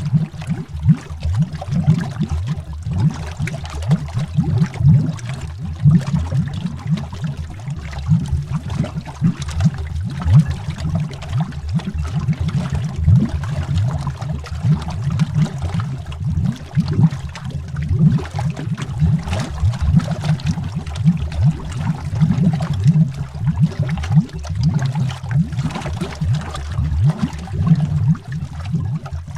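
Continuous underwater bubbling: a dense, irregular stream of low bubble pops without pause.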